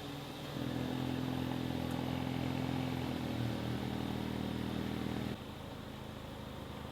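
Ford Focus RS Mk3's 2.3-litre turbocharged four-cylinder engine running through a non-resonated, valved Cobra Sport cat-back exhaust. It holds a steady low note, steps up to a slightly higher, louder steady note about half a second in, and drops back suddenly near the end.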